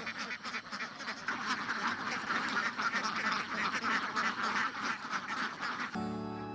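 A large flock of domestic ducks quacking, many calls overlapping in a dense, continuous chatter. About six seconds in, it cuts abruptly to music.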